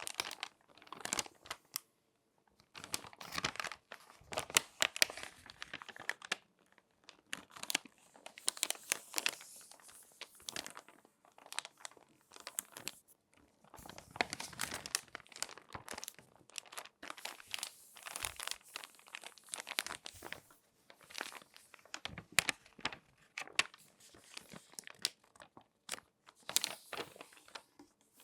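Crinkly magazine pages being folded and handled by hand: irregular bursts of sharp paper crinkling and crackling, with short pauses between them.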